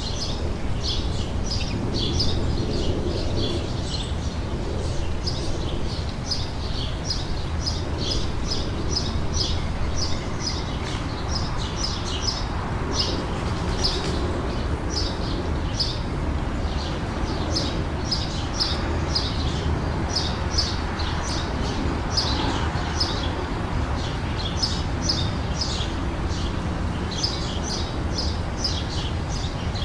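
Small songbirds chirping continuously, short high chirps coming several a second, over a steady low background rumble.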